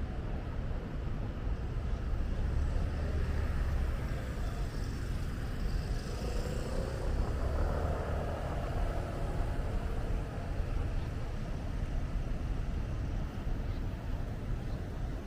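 City road traffic: cars running past in a steady rumble, with one vehicle passing louder about halfway through.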